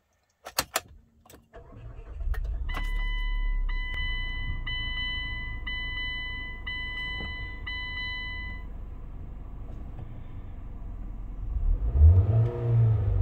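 Luxgen U6 GT's engine starting: a few clicks, then the engine cranks and catches about two seconds in and settles into a steady idle, while a dashboard warning chime rings six times, about once a second. Near the end the engine is revved, its pitch rising and falling.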